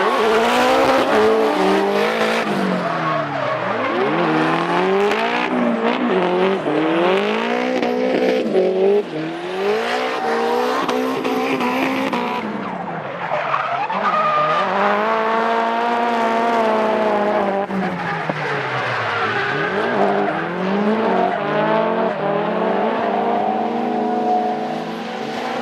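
Drift cars driven hard in a tandem battle, engine pitch repeatedly climbing and then dropping away as the throttle is worked. Tyres squeal and skid underneath.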